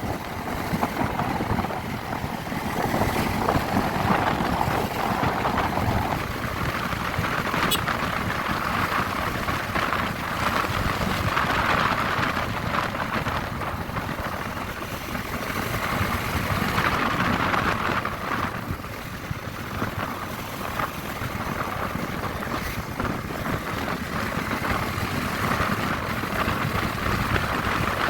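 Honda CB150R motorcycle's single-cylinder engine running while riding, mixed with heavy wind rushing over the microphone.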